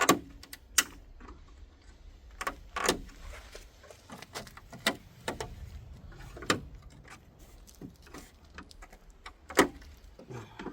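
Irregular clicks, knocks and rattles of a stuck part being pried and worked loose at the front of a Chevy Trailblazer, loudest at the start, about a second in and near the end.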